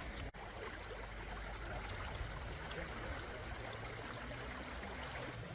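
Steady trickling of running water, a continuous even rush with a brief dropout about a third of a second in.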